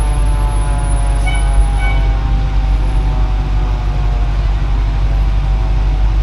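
1955 Chevrolet pickup truck driving at low speed, a steady engine drone over heavy low road and wind rumble, its pitch easing slowly down.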